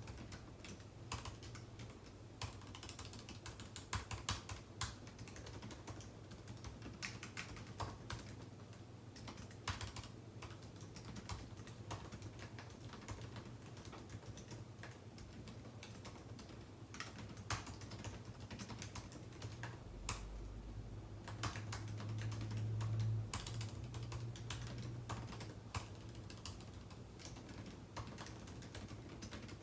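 Typing on a computer keyboard: irregular runs of key clicks with short pauses between bursts. Beneath them runs a steady low hum that swells for a few seconds about two-thirds of the way through.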